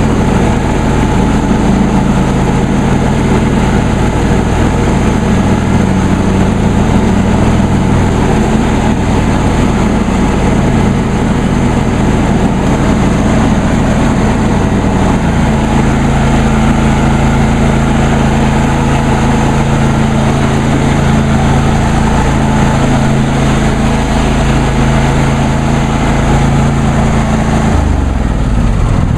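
John Deere D130 lawn tractor engine running steadily with the mower blades engaged and the cutting deck raised, so the blades spin without cutting. The engine note shifts about halfway through and drops off just before the end.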